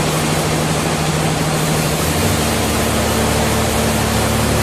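Machinery running steadily: a constant low engine hum under an even rushing noise, with no cuts or impacts.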